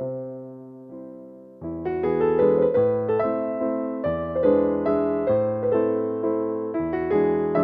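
Soft piano music: a held chord fading for the first second and a half, then a steady flow of notes with bass and melody.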